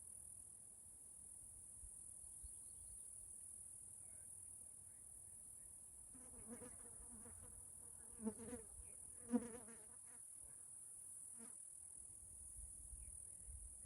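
Cicadas buzzing in a steady, unbroken high-pitched drone. Around the middle, a few short, pulsing lower-pitched sounds come and go, the two loudest about a second apart.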